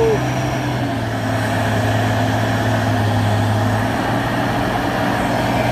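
Heavy truck's diesel engine running steadily under load while its rear wheels spin without grip on a road slick with spilled crude palm oil. The engine note shifts slightly about a second in and again near the four-second mark.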